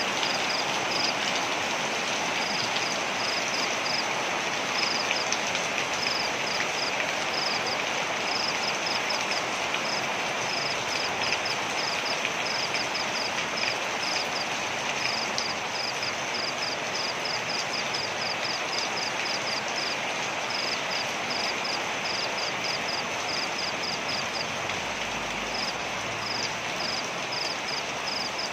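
Waterfall: a steady, even rush of falling water. Over it, runs of short, high-pitched chirps repeat several times a second, with brief gaps.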